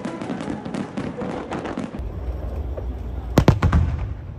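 Fireworks: a dense crackling of small bursts, then, over a low rumble, a quick cluster of several loud bangs from aerial shells bursting, about three and a half seconds in.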